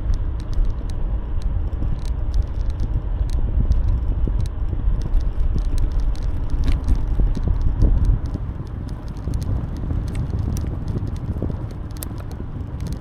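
Wind rumbling on the microphone of a moving bicycle, with scattered sharp clicks and rattles from the bike.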